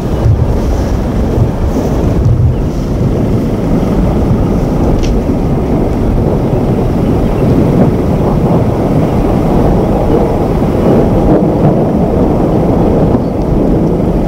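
Strong wind buffeting the microphone: a loud, steady, low rushing rumble.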